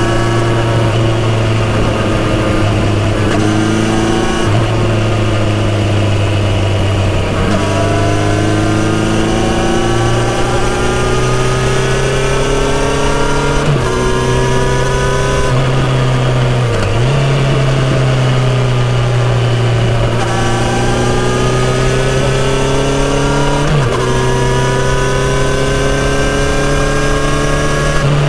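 Kawasaki Z900RS inline-four motorcycle engine and exhaust under way. The engine note climbs steadily in pitch and drops back sharply several times as the bike is ridden up through the rev range and shifted.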